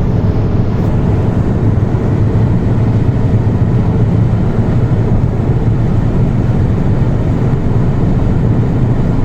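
Volkswagen Vento TDI diesel car running: a loud, steady rumble that holds at one level without revving up or down.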